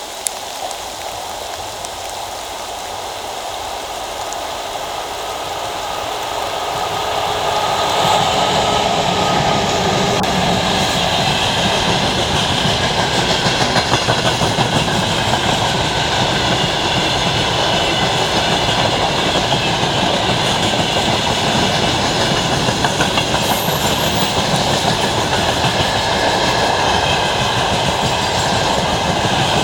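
Freight train hauled by a 2ES6 electric locomotive passing: the rumble grows over the first eight seconds as it approaches, then the wagons' wheels clatter steadily over the rail joints.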